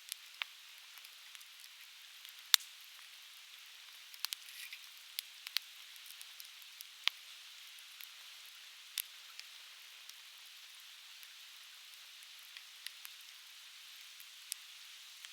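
Conifer wood burning in a fire pit, crackling with irregular sharp pops, the loudest about two and a half seconds in, over a steady murmur of a stream.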